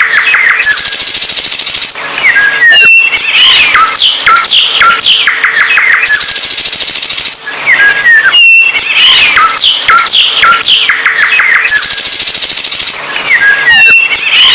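A songbird singing a loud, busy song of quick falling whistles and rapid trills. The same phrase comes round again about every six seconds.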